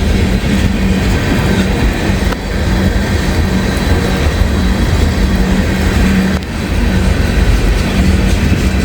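Freight train cars rolling past at close range, the wheels clattering over the rail joints, with a low steady rumble.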